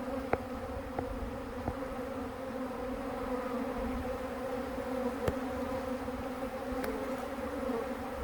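A honey bee swarm buzzing, a steady hum with a low and a higher tone, with a few faint ticks.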